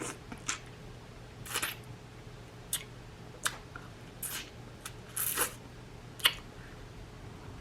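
About eight short, separate crinkling and squishing sounds, the loudest about six seconds in: seafood-boil food being handled and dug through.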